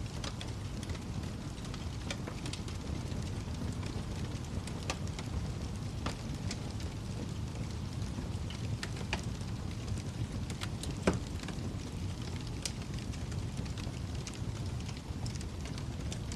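Wood fire burning in a fireplace: a steady low rumble of the flames with scattered sharp crackles and pops, the loudest pop about 11 seconds in.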